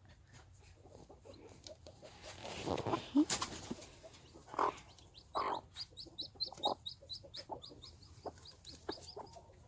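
Broody mother hen clucking in short low notes, with chicks peeping in quick, high cheeps from about six seconds in.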